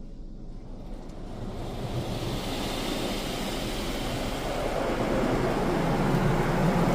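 Rinse water from a PDQ Laserwash 360+ car wash's rain curtain pouring over the car, heard from inside the cabin: a steady rushing hiss that grows louder from about a second in.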